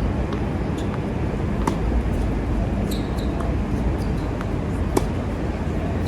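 Strong wind buffeting the microphone with a low rumble, and a few sharp knocks of tennis balls struck or bouncing, the clearest two about three seconds apart.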